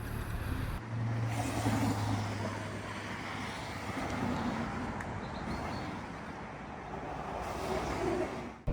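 Motor vehicle engine noise with a steady low hum over the first couple of seconds, over a continuous rushing outdoor noise.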